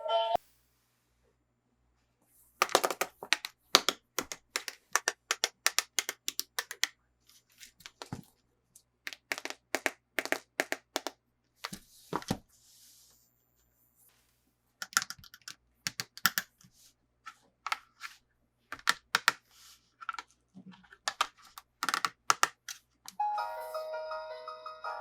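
Hard plastic toy pieces and packaging being handled: quick irregular clicking and tapping in clusters, with short pauses between them. Music comes back near the end.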